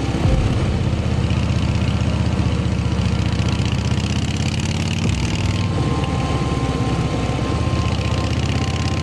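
Harley-Davidson V-twin motorcycle engine running steadily, its note shifting about five seconds in.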